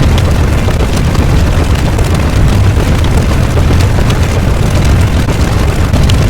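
Loud, continuous rumble, heaviest in the low end and without breaks, like a sustained explosion or eruption sound effect.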